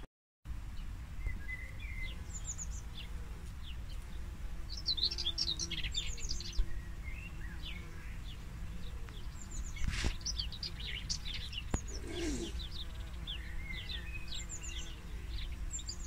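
Several wild birds chirping and trilling on and off in short high calls, over a steady low background rumble. The sound drops out briefly at the very start.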